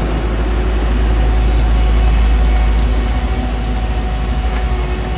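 Heavy diesel road-construction machinery running steadily: a loud, deep, even rumble with a faint steady whine above it.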